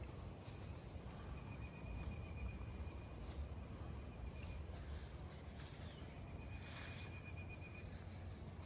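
Outdoor ambience with a steady low rumble, scattered short animal calls, and a thin high-pitched held call heard twice.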